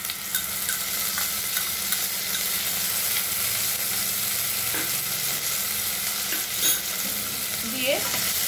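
Ginger-garlic paste frying with onion and green chilli in hot mustard oil, a steady sizzle as it is stirred, with a few light knocks against the pan.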